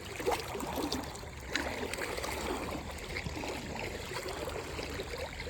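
Shallow river water trickling and splashing, with a few light knocks scattered through it.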